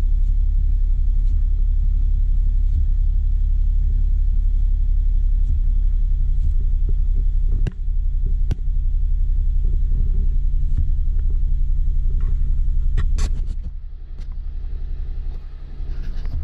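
Steady low rumble of a car, with two sharp clicks about eight seconds in and a cluster of clicks near the end, after which the rumble becomes quieter.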